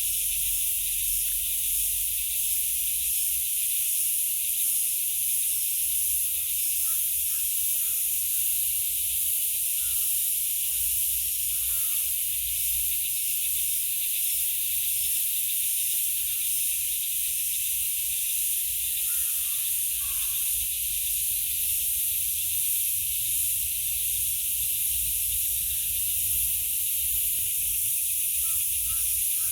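Steady high-pitched outdoor hiss, even throughout, with a faint low rumble under it and a few faint short chirps now and then.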